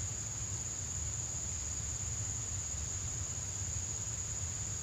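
Steady, high-pitched insect trill, typical of crickets, holding one unchanging pitch, over a low background rumble.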